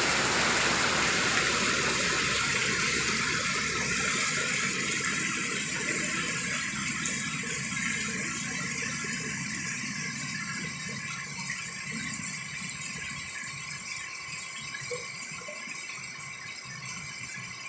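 Heavy rain pouring down, a steady hiss that grows gradually quieter over the stretch.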